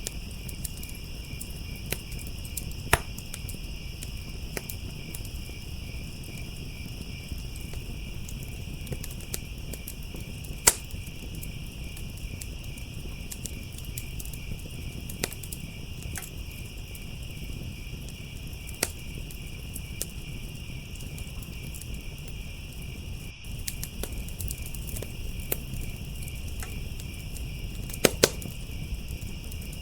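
Wood fire crackling, with irregular sharp pops and snaps and a few louder cracks, over a steady high trill of crickets.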